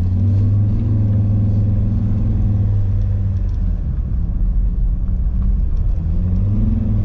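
A car's 2.4-litre engine pulling uphill under load, a steady low drone. Its pitch drops a little past halfway and climbs again near the end.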